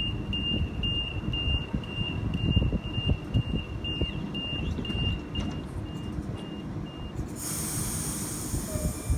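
Sydney Millennium (M-set) electric train's door warning beeper, a steady high beep about three times a second, fading and stopping about seven seconds in, over the low rumble of the train. Near the end comes a loud hiss of air.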